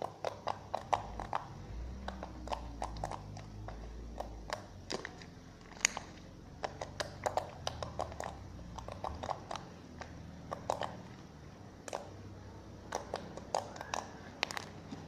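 Borax-activated glue slime being squeezed, stretched and pressed in the hands, giving irregular clusters of sharp, wet clicks and pops: the slime "click" that comes with enough activator.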